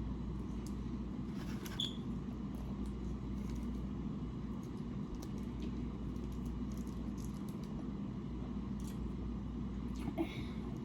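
Eating sounds: soft chewing and small mouth clicks while eating Chinese takeout ribs and lo mein, over a steady low background hum.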